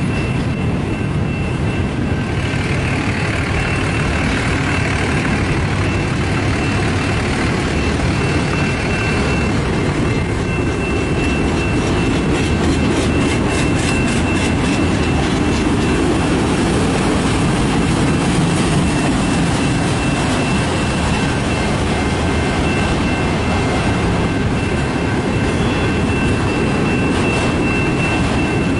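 Freight train of autorack cars rolling past close by: a steady rumble of steel wheels on rail. Through the middle comes a run of regular clicks as the wheels cross rail joints, and a thin steady high whine runs over the top.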